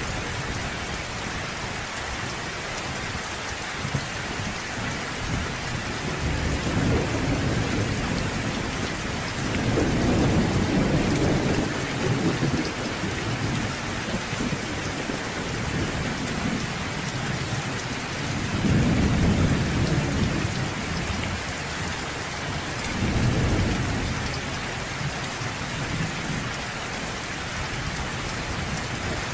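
Steady heavy rain hissing, with distant thunder rumbling low in four swells, the strongest about ten and nineteen seconds in.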